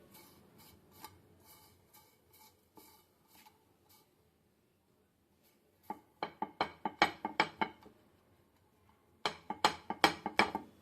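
Faint scattered clicks, then two runs of loud, sharp knocks, about six a second, the first about six seconds in and the second near the end.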